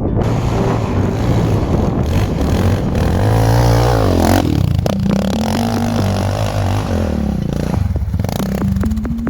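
Off-road vehicle engine revving, its pitch rising and falling as the throttle is worked.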